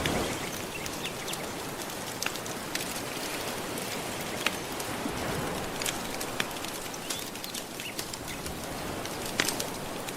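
Gentle ocean waves washing steadily, mixed with a wood fire crackling in irregular sharp pops and snaps.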